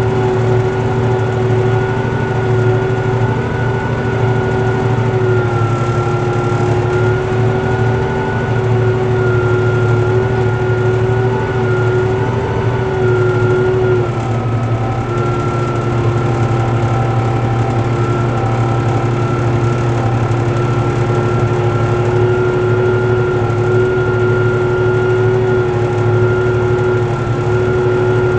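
Diesel tractor engine running steadily under load while pulling a four-bottom plough, with a steady whine over the engine note that shifts slightly about halfway through.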